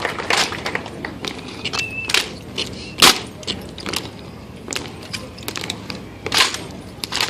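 Irregular sharp slaps and clacks of M1 Garand rifles with fixed bayonets being spun, slapped and caught by a silent drill team, with a light metallic rattle; the loudest crack comes about three seconds in.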